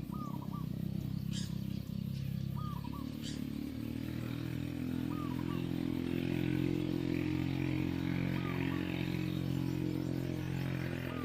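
A steady low motor hum, filling out and growing slightly louder about four seconds in, with a bird's short double chirp repeating every two to three seconds.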